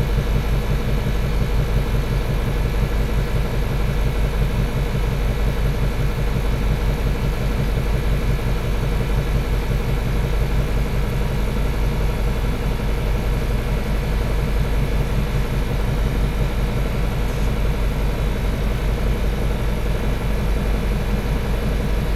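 A machine running steadily: a low hum with a fast, even pulse and a few steady tones above it, unchanged throughout.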